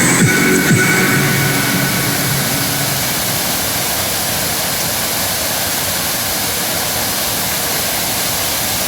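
A waterfall: a steady, even rush of falling water. The last deep sliding bass notes of a song die away in the first second.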